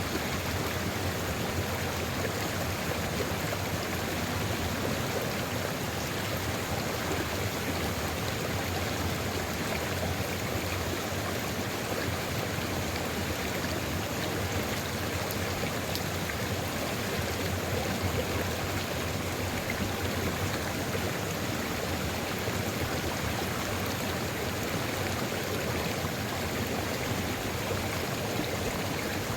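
Sulfur river flowing, a steady, even rush of water with no change in level.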